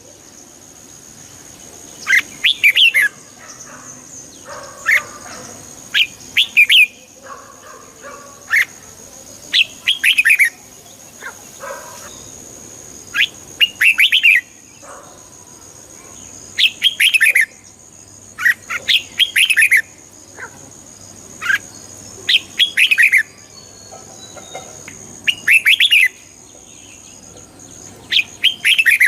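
Red-whiskered bulbul singing short, quick, bubbling phrases over and over, one every one to three seconds, with a faint steady high whine underneath.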